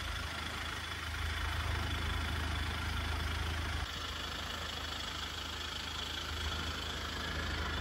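Kia Sportage SUV's engine idling steadily, a low hum, dropping slightly in level about four seconds in.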